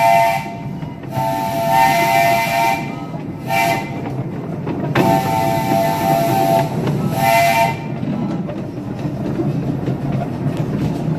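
Live steam locomotive's whistle sounding a chord of several tones with steam hiss in a series of blasts. One blast ends just after the start. A long blast, a short one, another long one and a final short one follow, over the steady low rumble of the moving train.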